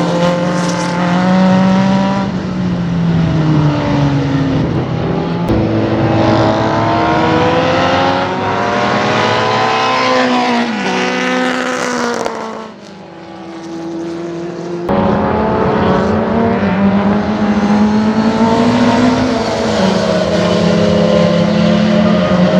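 Swindon Engineering-modified Ford Kent four-cylinder engine of a Turnham Mako C clubman sports car running hard on a race track, its pitch climbing with the revs and dropping sharply at gear changes. The sound falls quieter about 13 seconds in and is loud again from about 15 seconds.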